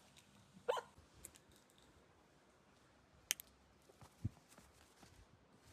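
Faint scattered clicks and taps of small objects being handled by an African grey parrot at play, with a sharp double click about three seconds in and a low thump just after four seconds.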